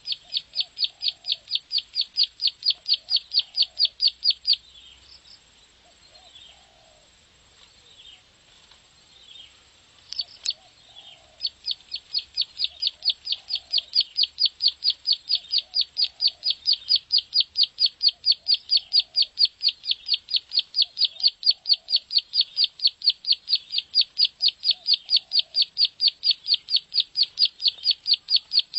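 Ciblek sawah (prenjak sawah, a prinia) singing its rapid clicking trill, about eight sharp ticks a second in long, tight runs. One run breaks off after about four seconds, and a longer run starts again about eleven seconds in. A fainter, lower call repeats about every second and a half underneath.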